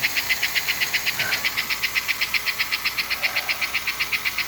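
American Flyer E6 4-4-4 model steam locomotive running on test rollers, its chuffing smoke unit puffing a fast, even chuff of about nine puffs a second.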